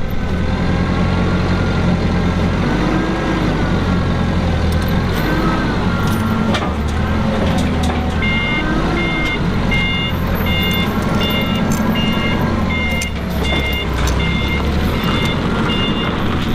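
A loader's engine running under load, its revs swelling and dropping several times, while a reversing alarm beeps steadily about one and a half times a second from about halfway through.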